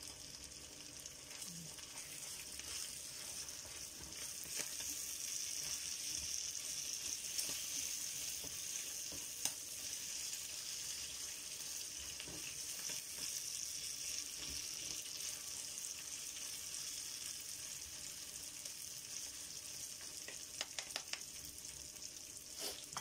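Ground pork sisig frying in a pan with a steady sizzle, with a few light clicks of wooden spatulas stirring it, more of them near the end.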